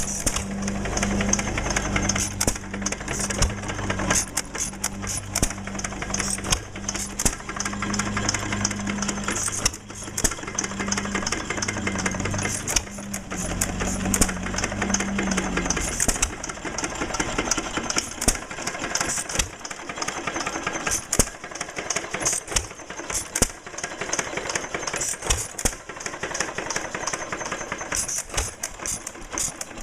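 Engine running with a rapid clatter of knocks and clicks. A low pulsing hum underneath stops about halfway through while the clatter goes on.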